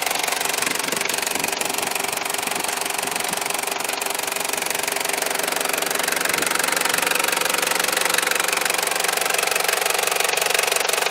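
1996 Toyota Land Cruiser Prado's 3.0-litre four-cylinder turbodiesel running steadily.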